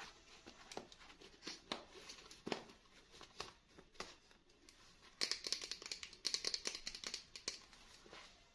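Packaging being handled during an unboxing: scattered light clicks and rustles, then louder, denser crinkling and tearing from about five seconds in until near the end.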